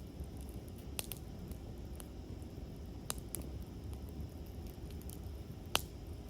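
Campfire crackling: a few sharp pops and snaps, the loudest near the end, over a low steady rush of the burning fire.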